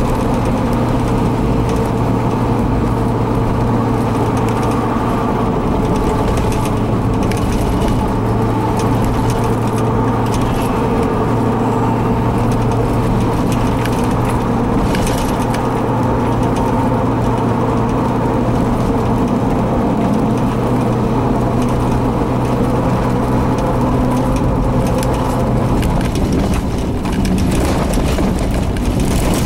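A vehicle engine idling with a steady, unchanging hum, over a constant rush of noise; the hum's deepest part drops out about 26 seconds in.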